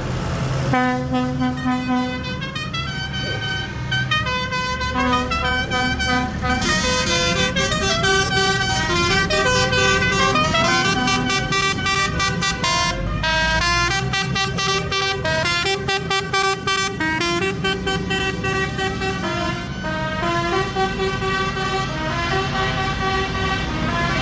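A tune played in held notes stepping up and down in pitch, horn-like in tone, over the low running of vehicle engines.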